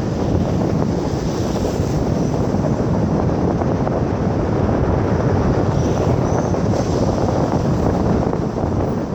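Steady low rumble and rush of wind buffeting the microphone.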